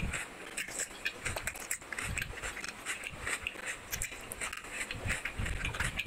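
Close-miked eating sounds: wet chewing and lip smacks in quick, irregular clicks, with sucking as curry gravy is licked off the fingers.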